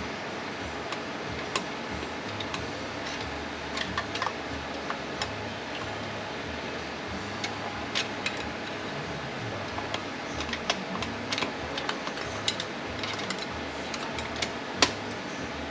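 Scattered light metallic clicks and scrapes of scribes prying a snug, O-ring-sealed part out of a ZF 9HP48 automatic transmission case, over a steady low hum. The clicks come more often in the second half, with one sharper knock near the end.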